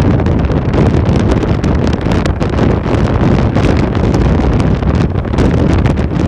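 Heavy wind buffeting the microphone while riding, a loud steady rumble with frequent crackling spikes.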